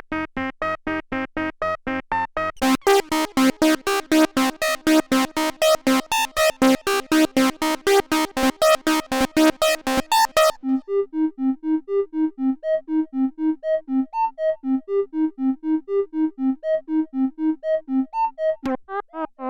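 Roland SE-02 analog monosynth playing a fast sequenced pattern of short notes, about five a second, stepping through its preset patches. It switches to a brighter, buzzier patch about three seconds in, to a softer, duller one about ten seconds in, and to another just before the end.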